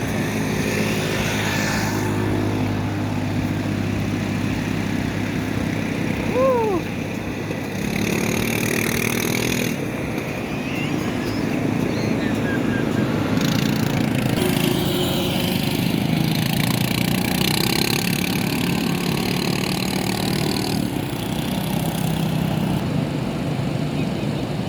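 A small engine running continuously, its pitch shifting every few seconds, over a steady noise. A short chirp-like tone rises and falls about six seconds in.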